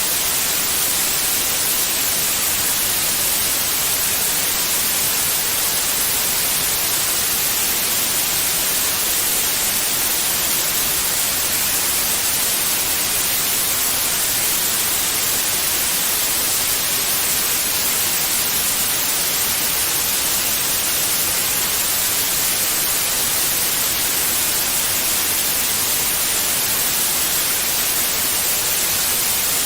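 Steady white noise: an unbroken, even hiss with no change in level, brightest in the high frequencies.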